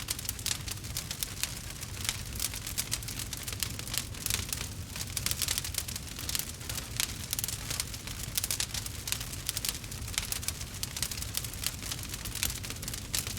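Campfire crackling: a dense, irregular patter of sharp pops and snaps from burning wood over a low, steady rumble of flame.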